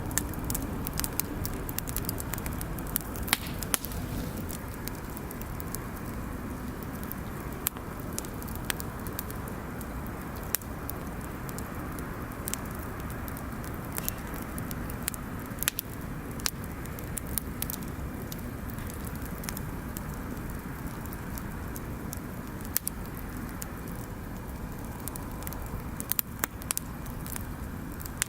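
Bonfire crackling: irregular sharp pops and snaps over a steady low rush, with a few louder clusters of pops.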